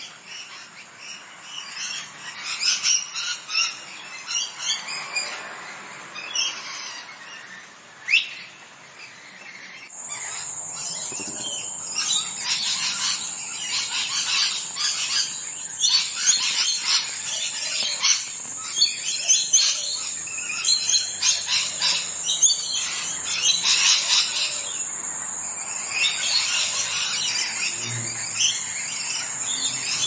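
Birds chirping with many short, quick calls. About ten seconds in the sound gets louder and a steady high-pitched tone starts beneath the chirps.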